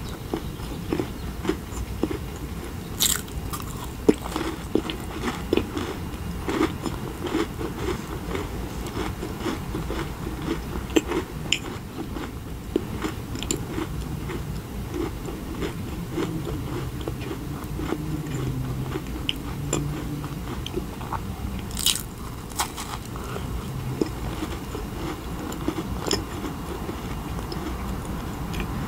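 Close-miked chewing and biting of French macarons: the crisp meringue shells crunch and crackle between the teeth in many small clicks. Two sharper crunches stand out from the rest.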